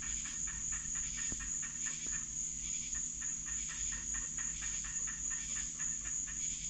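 Night chorus of insects and frogs: a steady high-pitched insect drone with rapid pulsing calls about four a second over it.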